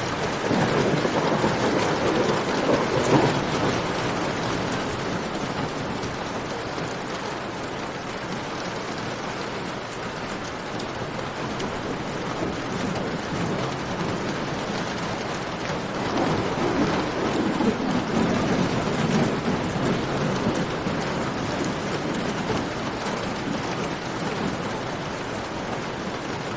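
Steady rain falling, with two rumbles of thunder that swell for a few seconds each, one about a second in and another about sixteen seconds in. Faint campfire crackles tick through it.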